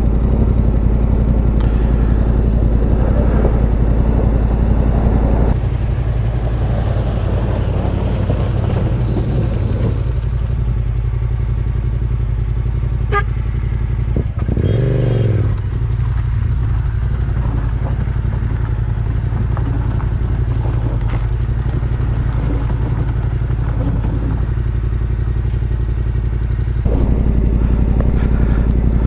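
Adventure motorcycle engine running steadily while under way, with some clatter. The engine note drops about five seconds in and picks up again near the end.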